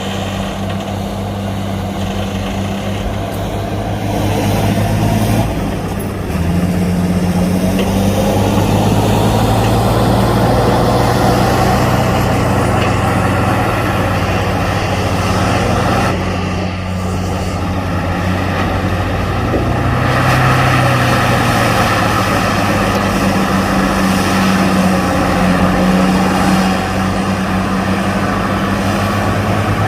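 Heavy diesel earthmoving machinery running continuously, its engine drone shifting in pitch and load several times as it works.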